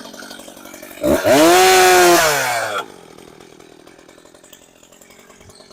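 Gas chainsaw revved once about a second in: the engine speed climbs quickly and then falls back over roughly two seconds.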